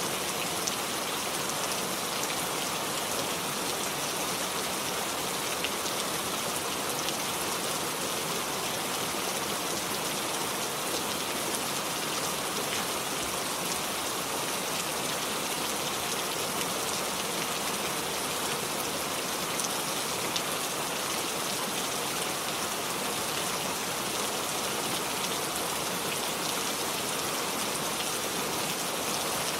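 Steady rain falling and pattering on surfaces, an even hiss with fine scattered drop ticks.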